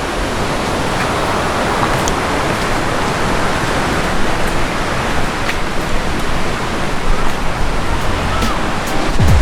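Ocean surf washing on the beach, a steady rushing noise that swells a little.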